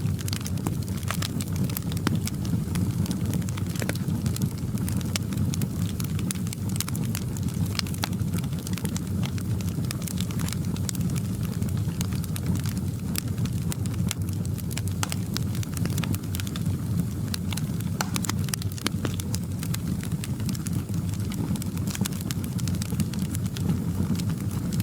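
Fire in a fireplace burning steadily, with a low rumble under frequent irregular crackles and pops.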